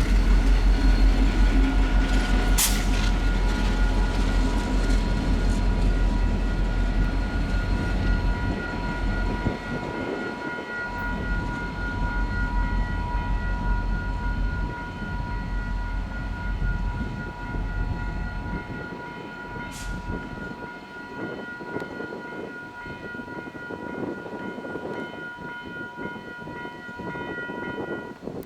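Iowa Northern train led by F40 diesel locomotives moving past, its multi-chime horn held almost without a break over the engine rumble. The rumble is heavy for the first ten seconds or so, then fades.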